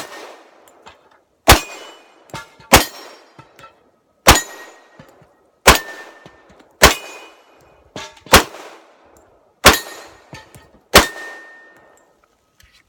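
Glock 21 Gen 4 .45 ACP pistol fired in a steady string of about eight shots, roughly one every second and a half, each followed a moment later by the clang and ring of the bullet striking a steel target. The firing stops about eleven seconds in.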